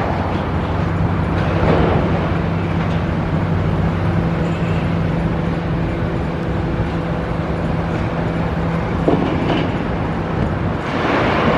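Heavy machinery engine running with a steady low drone, with short bursts of scraping and crunching about two, nine and eleven seconds in, typical of a roof being torn down.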